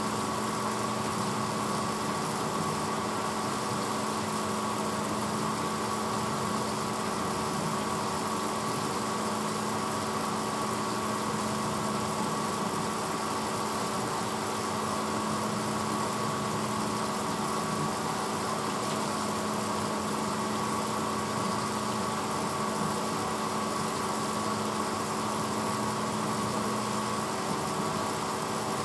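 1986 Hotpoint Potwasher dishwasher running with a steady motor hum.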